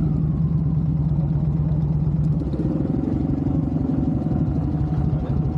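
Harley-Davidson Twin Cam V-twin trike engine running at low speed with a steady, even, low rumble as the trike pulls slowly into a parking spot.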